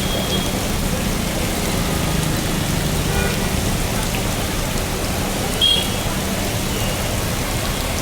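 Heavy rain pouring steadily, with a short high beep about six seconds in.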